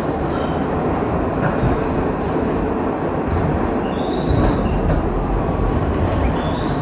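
Kawasaki R62 subway train running along the track: a steady rumble, with faint brief wheel squeals about four seconds in and again near the end.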